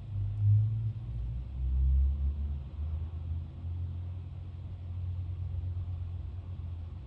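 A low, steady rumble that swells briefly about half a second in and again around two seconds in.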